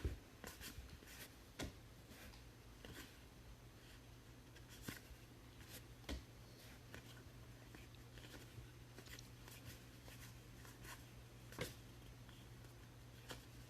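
Faint, scattered clicks and rustles of a trading card box and packs being handled and opened, over a low steady hum.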